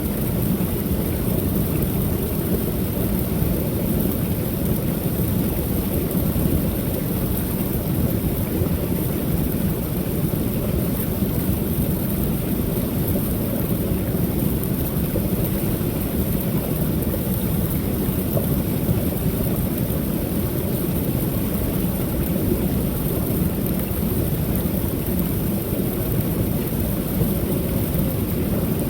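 Waterfall: water pouring over a low creek fall in a steady, unbroken rush, deepest in the low range.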